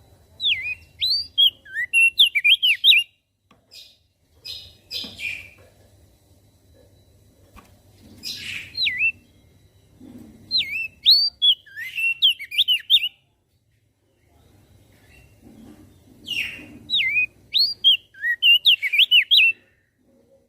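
Crested white-eye (opior jambul) singing in three bursts of quick notes sweeping up and down, each lasting about three seconds. A few harsher, rougher calls fall between the bursts, over a faint low hum.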